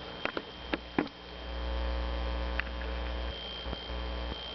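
Small three-bladed ceiling fan running, its motor giving a steady electrical hum. A few light clicks come in the first second, and a low rumble rises about a second in.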